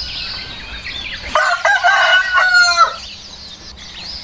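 A rooster crowing once, one drawn-out cock-a-doodle-doo of about a second and a half starting about a second and a half in, with small birds chirping in the background.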